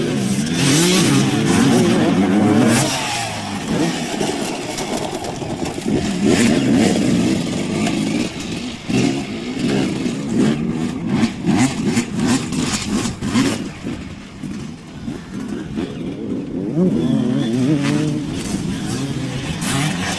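Dirt bike engines revving up and down, their pitch rising and falling again and again, with a run of sharp crackles in the middle.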